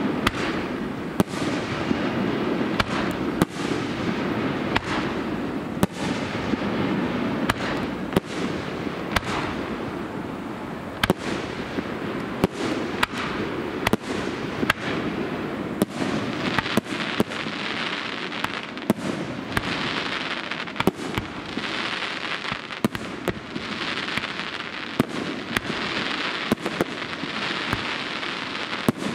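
Aerial fireworks shells bursting in a fast, irregular string of sharp bangs over continuous crackling. From about halfway on, waves of fizzing crackle swell and fade between the bangs, about once a second.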